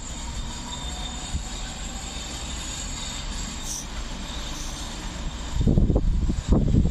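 Pesa Dart ED161 electric train running away down the line, a steady rushing rumble of wheels on track. About five and a half seconds in, loud uneven low rumbling from wind buffeting the microphone comes in and drowns it.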